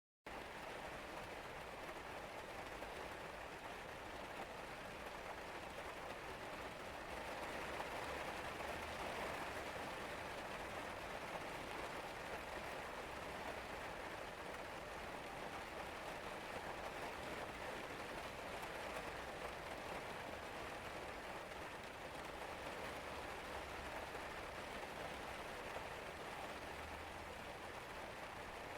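Steady rain falling, an even hiss of many drops, a little heavier for a few seconds about a quarter of the way in.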